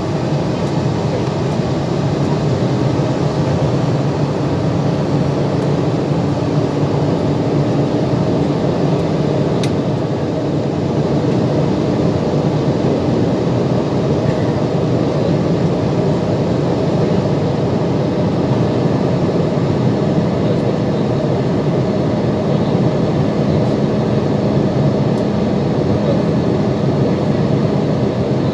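Steady cabin noise of an Airbus A320 airliner in flight, jet engines and airflow, with a low even hum.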